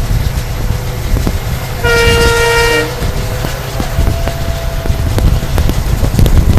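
A WDP4 diesel locomotive's horn sounds one steady blast of about a second, about two seconds in. Underneath runs the steady rumble of the moving passenger train, with scattered clicks of wheels over the rails.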